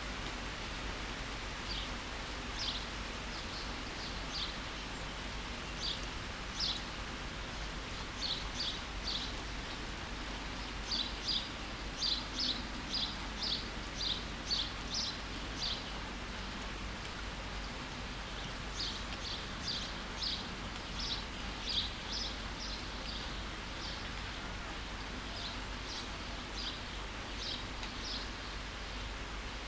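Steady rain falling, with a bird chirping over it in quick runs of short, high notes that come in two long spells, pausing for a few seconds in between.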